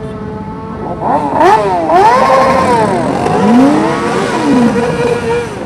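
Several sport motorcycle engines revving, their pitch rising and falling in overlapping sweeps, louder from about a second in.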